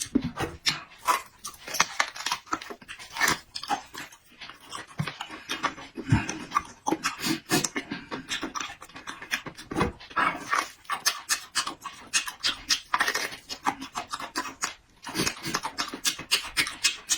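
Close-miked chewing of meat: a continuous run of wet smacking and mouth clicks with breaths between bites.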